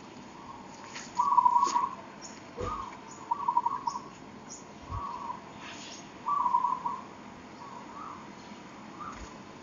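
A bird calling over and over: short warbling calls, each about half a second long, repeating every second or so.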